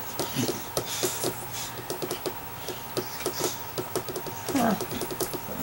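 A pet bird calling in the room: a single call falling in pitch about four and a half seconds in, over a run of soft small clicks.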